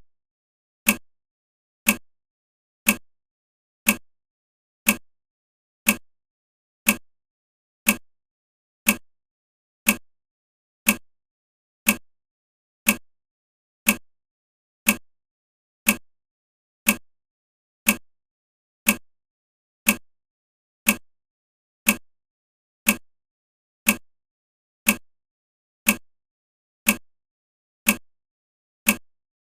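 A sharp tick, each one dying away quickly, repeating evenly about once a second.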